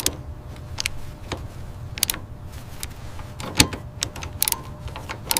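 Scattered sharp clicks and knocks of tools and metal parts being handled during assembly, over a steady low hum. The loudest knock comes about three and a half seconds in.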